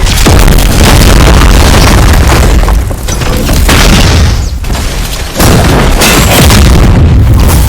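Extremely loud, distorted noise at maximum volume, sustained and booming, with short dips about 3 and 4.5 seconds in.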